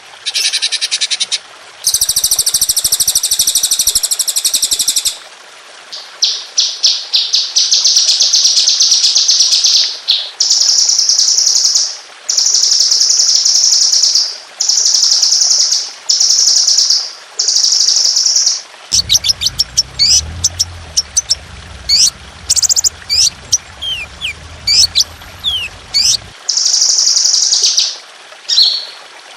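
Songbirds singing a masteran track of rapid, high trills ('tembakan') in bursts of one to two seconds, then a run of separate sharp chirps in the second half over a faint low hum.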